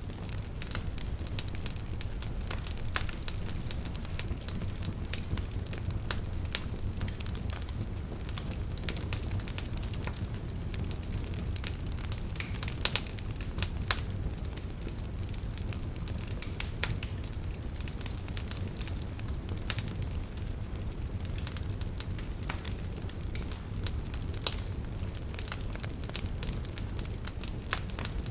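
Wood fire burning in a fireplace: a steady low rumble of flames with constant irregular crackling and occasional louder pops of the burning logs.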